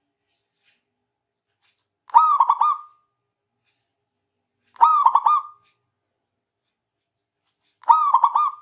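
Zebra dove (perkutut) cooing: three calls about three seconds apart, each a quick run of rolling notes ending in a short held note. A vigorous, frequent song used as a lure call to rouse rival males.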